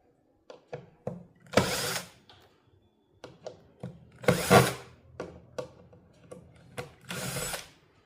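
Three short bursts of a small power tool, each under a second, with sharp clicks and taps of handled parts in between.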